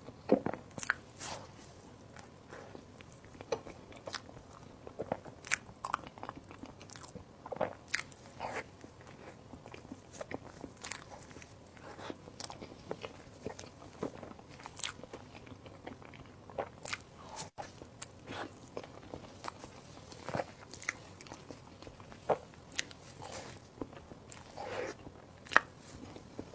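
Close-miked eating: a person biting and chewing, with irregular short mouth clicks and smacks.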